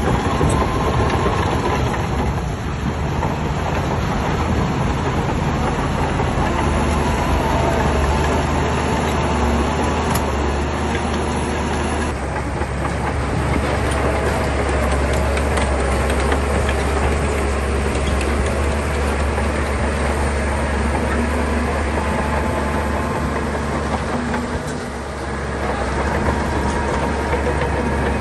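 SHANTUI crawler bulldozer running and working, its diesel engine making a steady heavy rumble with clattering underneath. The sound drops briefly for about a second near the end, then picks up again.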